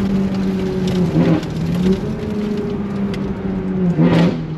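Car engine running under way, its note mostly steady, with two short drops and recoveries in pitch: about a second in and again near the end.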